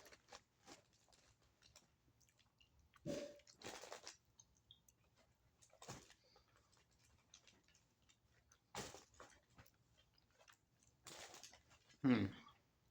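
Close-miked chewing of a sandwich: soft wet mouth clicks and smacks in short, scattered bursts, with a short vocal sound near the end.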